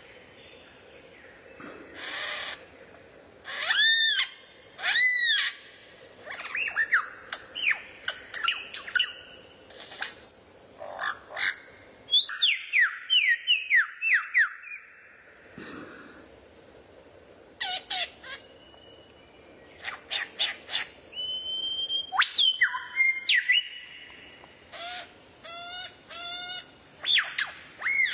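Recorded songbird song and calls: varied clear whistles, quick downward-sweeping notes and short rapid runs of repeated notes, in phrases broken by brief pauses.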